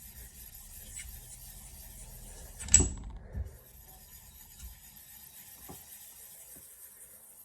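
Nagura stone rubbing across a wet 1000-grit soaking whetstone, raising slurry. The rubbing stops with a sharp hard clack nearly three seconds in, a stone set down on a hard surface, then a softer knock and a few light taps.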